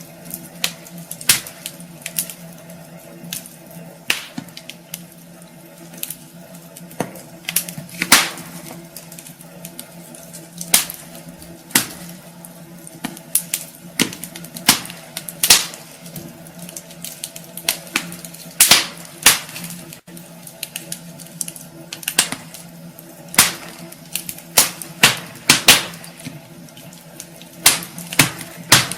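Wood fire crackling in a fireplace: irregular sharp pops and snaps, some in quick clusters, over a soft steady hiss and a low steady hum.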